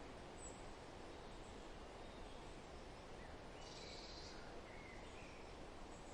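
Faint, steady rustling wind noise, with a few short, faint bird chirps about halfway through.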